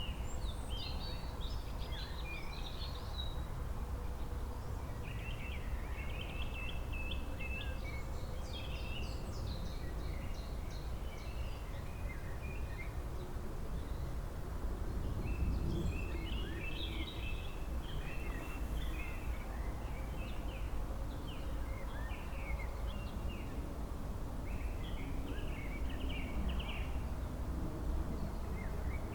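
Several songbirds chirping and singing in spring, in many short, high chirps and trills that come in clusters, over a steady low rumble.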